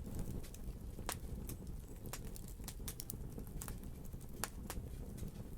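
Wood fire burning in a fireplace: a steady low rumble of the flames with irregular sharp crackles and pops, about two or three a second.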